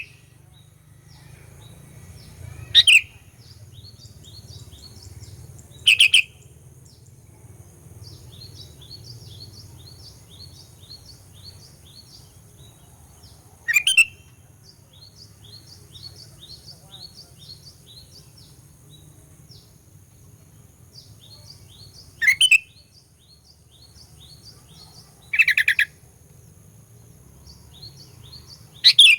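Sooty-headed bulbul (kutilang) calls: six short, loud calls spaced a few seconds apart, over a steady run of quick, fainter chirps.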